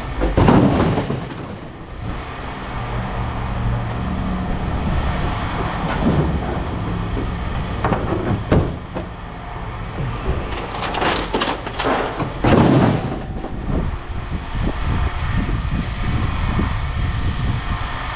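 Heavy machinery running steadily while scrap sheet-metal hoods are moved, with loud metal clanks and scraping, the loudest about half a second in and again around 11 to 13 seconds.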